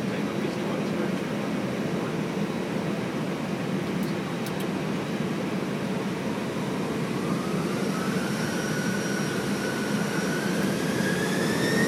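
Airbus A319 cockpit noise, a steady rush and hum from the jet engines and air conditioning. About seven seconds in, a whine starts rising in pitch and the sound grows louder as the engines spool up toward takeoff thrust.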